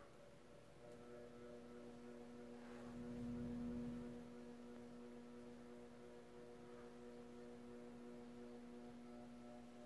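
FASCO World's Fair ceiling fan motor giving a faint, steady electrical buzz that sets in about a second in, as its add-on speed controller is turned down; the controller is what makes the motor buzz. A low swell rises and fades around three seconds in.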